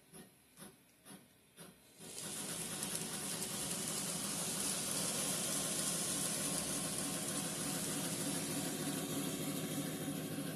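Bachmann N scale 2-8-0 Consolidation model locomotive running on track. It starts with faint, evenly spaced clicks, then about two seconds in its motor and wheels break into a steady whirring hiss with a low hum as it is sped up.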